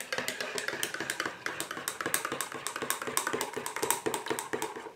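Close-up chewing of homemade bread: a dense run of many small, sharp clicks and mouth sounds.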